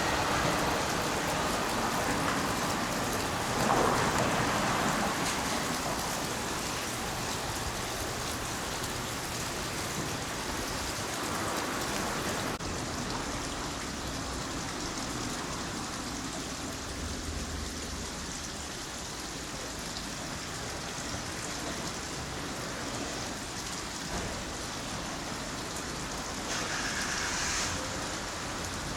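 Steady rain falling, an even hiss. In the first few seconds a passing train fades away beneath it.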